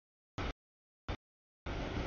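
Freight train cars rolling past, a steady noise that cuts in and out: two short fragments in the first half, then a longer stretch from about three-quarters of the way in.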